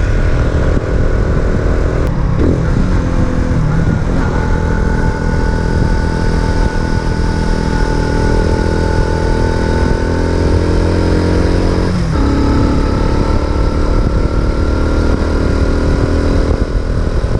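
Racer Alpha RC50 moped's 50cc single-cylinder four-stroke engine running under way, with wind on the microphone. The engine note breaks and picks up again twice, about two seconds in and about twelve seconds in, then holds steady with a slowly rising whine.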